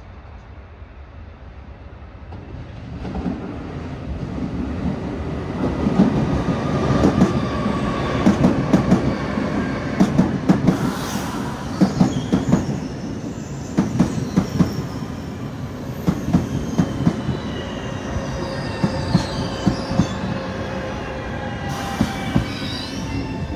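Frecciarossa high-speed train pulling in and slowing, growing louder from about three seconds in. Its wheels clatter over the rail joints in groups of sharp knocks, and a high squeal from wheels and brakes slowly falls in pitch.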